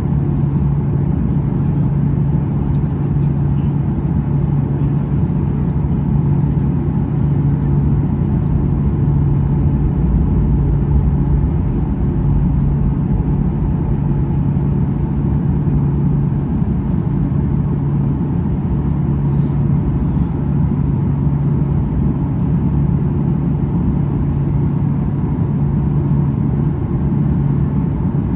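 Cabin noise of a Boeing 737-800 airliner in flight: its CFM56 jet engines and the airflow make a steady drone, with a strong low hum that holds a constant pitch.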